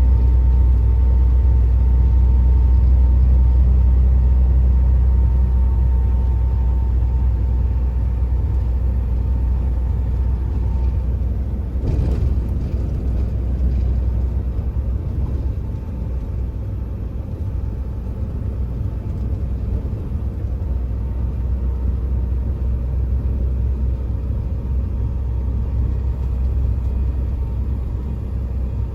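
Truck engine and road noise while driving: a steady low drone that eases a little after about six seconds, with a single sharp knock about twelve seconds in.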